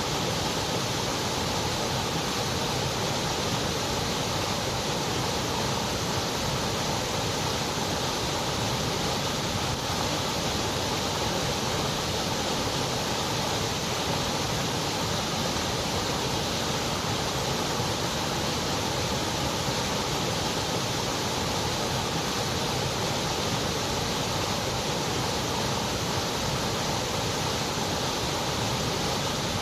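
Continuous white noise: a steady, even hiss spread across low and high pitches alike, with no change in level or character.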